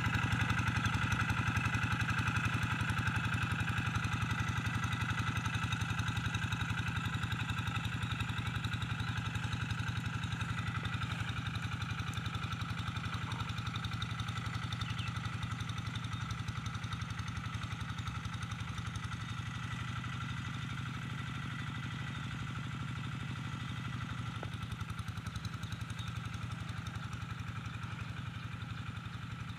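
Quick G1000 Boxer hand tractor's single-cylinder diesel engine running steadily under load, with an even rapid pulsing, while it pulls a moldboard plough to deepen furrows. It grows gradually fainter.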